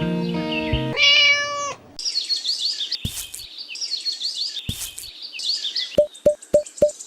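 Background music ends about a second in, giving way to a single loud meow-like animal call. Then comes a run of high bird chirps with a couple of clicks, and near the end a regular ticking beat of about four a second starts.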